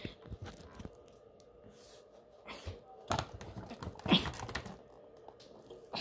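Scattered light taps, clicks and knocks of handling, a few seconds apart, the loudest about four seconds in, as the camera and the toy train are being moved around.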